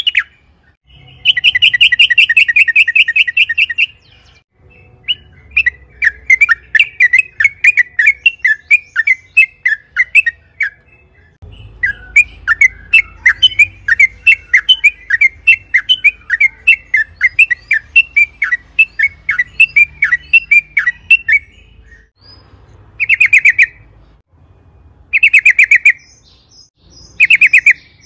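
Yellow-vented bulbul singing: a fast chattering trill, then long runs of quick, bubbly, chirping notes, and a few short loud bursts near the end.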